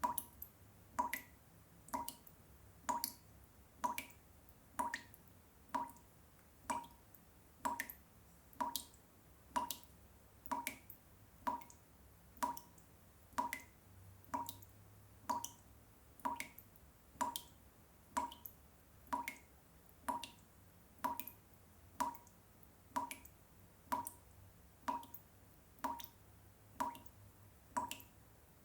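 Water dripping in a steady, repetitive loop, one drop about every second, each a short plink over a faint background hum.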